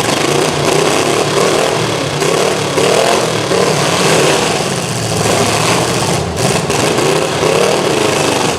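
Demolition derby cars' engines running and revving, several at once, the pitch rising and falling again and again as the drivers gun them.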